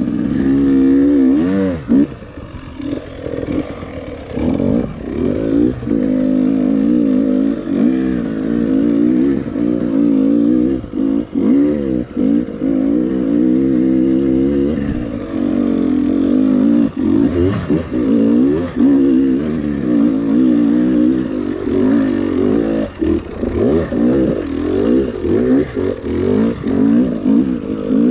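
Enduro dirt bike engine revving up and down continuously as it is ridden off-road, with scattered knocks and clatter.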